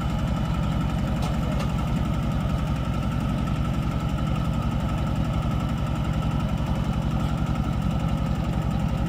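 A vehicle engine running steadily, with a fast, even low pulsing.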